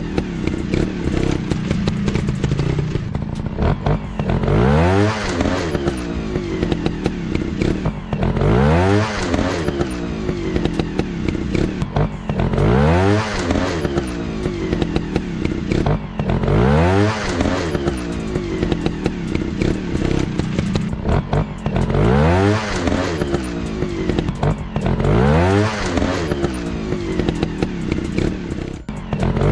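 Dirt bike engines revving hard again and again, the pitch climbing and falling back about every four seconds, with frequent sharp clattering knocks.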